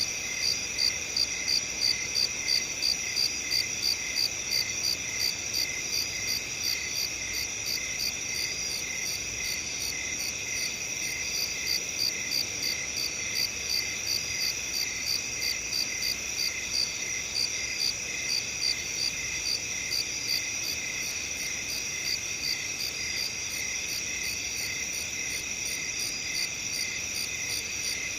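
Crickets chirping: a steady high trill with a louder chirp pulsing about twice a second over it.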